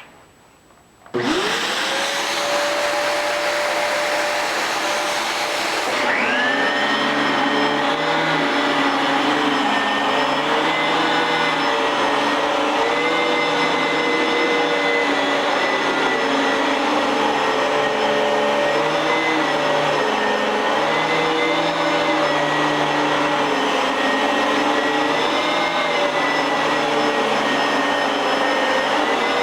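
A vacuum cleaner is switched on about a second in, its motor whining up to speed and then running loudly. About six seconds in the sound changes and its pitch wavers up and down for the rest of the time.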